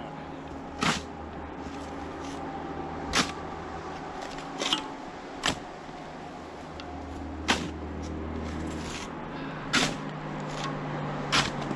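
Snow shovel blade striking and scraping into snow: about seven short, sharp scrapes, one every one to two seconds, over a low steady hum.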